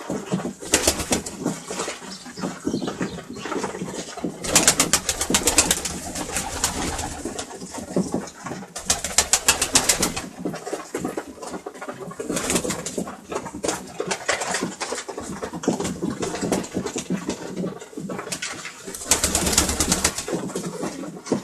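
Domestic pigeons cooing, with several short bursts of rapid rattling clicks.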